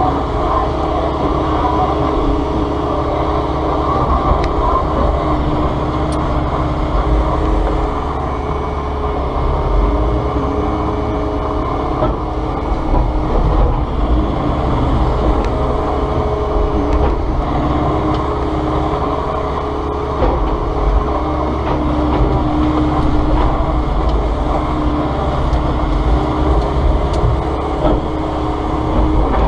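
Volvo ECR145EL excavator at work: a steady engine drone with a pitched whine that comes and goes.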